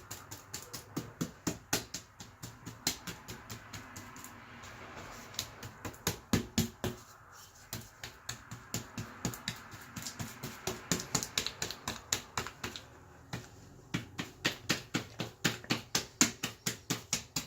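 Brush loaded with drywall joint compound dabbed repeatedly against a wall, a run of quick wet taps about three a second, with a couple of short pauses.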